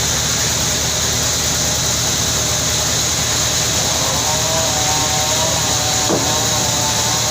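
Sawmill machinery running steadily: a continuous low motor hum under a constant high hiss. A faint wavering whine joins about four seconds in.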